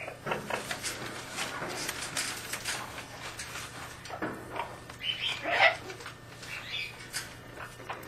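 Pet birds making short chirps and calls, with a louder call about five and a half seconds in.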